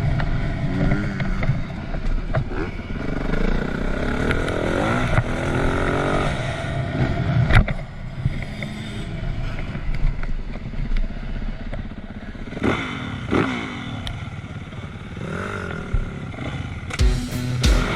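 2010 Yamaha YZ450F's single-cylinder four-stroke engine revving up and easing off again and again as the bike is ridden. A few sharp knocks cut through it, the loudest about seven and a half seconds in.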